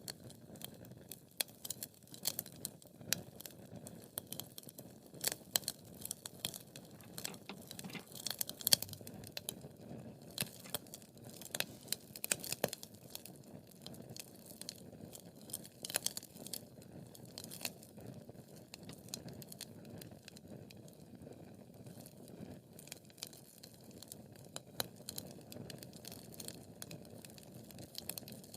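Wood fire crackling: irregular sharp pops and snaps over a low, steady hiss and rumble of burning logs.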